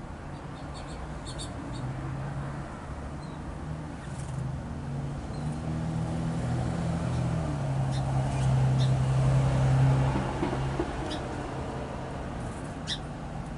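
A motor vehicle passing at a distance, its low engine hum building to its loudest about two-thirds of the way through, then easing off. Short high chirps of small songbirds at the feeder break in now and then over it.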